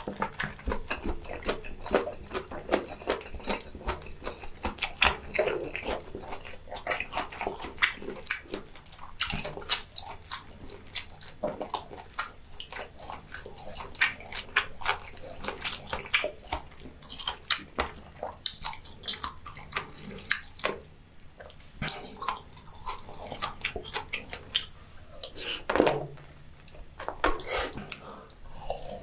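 Close-miked wet chewing and lip-smacking: a steady run of sticky clicks and smacks. About halfway through, a lemon is squeezed over a boiled squid and the juice drips.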